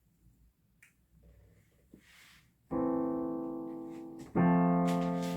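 Yamaha P-95 digital piano sounding a held chord about halfway through, then a second, louder chord near the end, each slowly fading: its sound output working again with new C16 and C17 capacitors.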